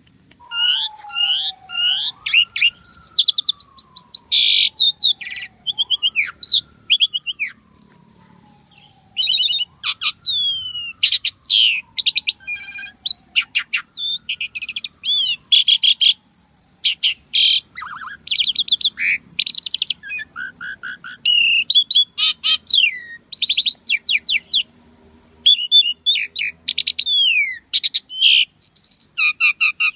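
Asian pied starling (jalak suren) singing vigorously: a long, varied run of rapid chirps, clicks and whistled phrases with few pauses. Under it, during the first half, a lower whistle slowly rises and then falls, repeating about every four seconds.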